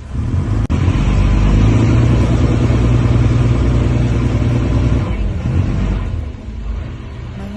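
An engine running with a low rumble, loudest for the first few seconds and dropping off about six seconds in.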